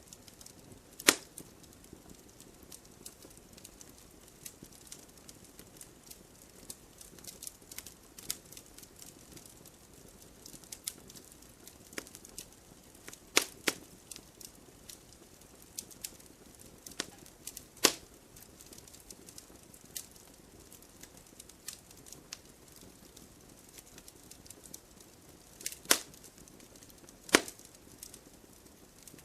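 Wood fire in a fireplace crackling, with irregular small snaps over a faint hiss and a handful of sharp, louder pops: one about a second in, two in the middle, and two near the end.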